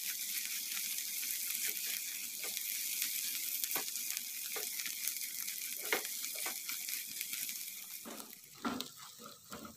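Ground green chili sambal sizzling in oil in a non-stick wok, stirred with a silicone spatula that scrapes and knocks against the pan now and then. The sizzle dies down about eight seconds in.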